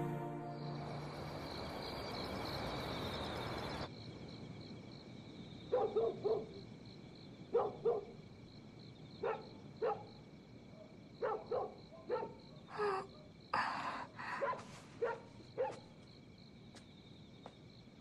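Insects trilling steadily, with a dog barking from about six seconds in: a series of short barks, often in pairs, the loudest sounds here. The first four seconds hold a steady hiss that cuts off abruptly.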